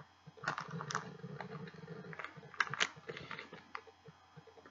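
A person chewing a gummy fruit snack close to the microphone: irregular sticky, wet mouth clicks and smacks, clustered about half a second in and again around two to three seconds in.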